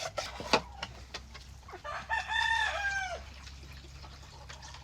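A rooster crows once, about two seconds in, a call of just over a second that drops in pitch at the end. A sharp knock comes about half a second in, over a low steady hum.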